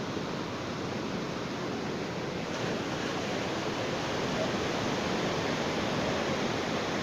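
Ocean surf washing onto a beach, a steady rushing wash of waves that swells slightly a little before halfway.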